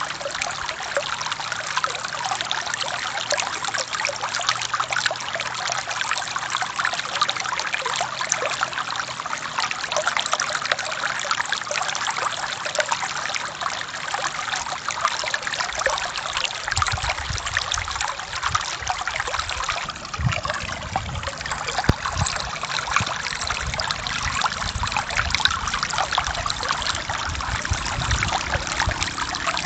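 Forest stream running over rocks, a steady trickling and splashing of water. About halfway through, a low rumble comes in underneath.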